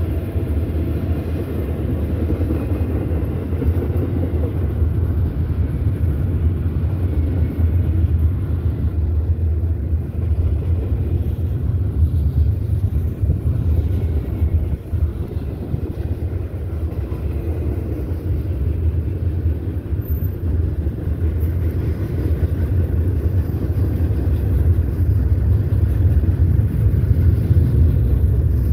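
Intermodal freight train's double-stack well cars rolling past at speed: a steady, loud low rumble of steel wheels on rail, a little louder near the end.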